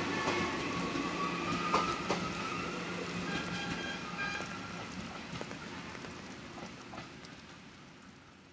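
Passenger coaches of a departing express train rolling past on the rails, wheels clicking over rail joints, with a thin high whine in the first couple of seconds; the sound fades steadily as the train pulls away.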